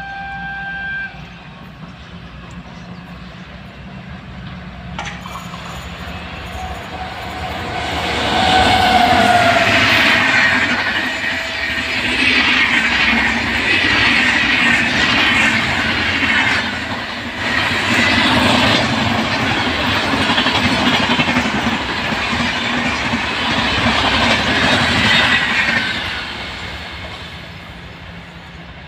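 A train horn sounds for about a second at the start. Then an Indian Railways express train passes close by at speed: its wheels clatter rhythmically on the rails, building up over a few seconds, staying loud for about fifteen seconds and fading away near the end as the train recedes.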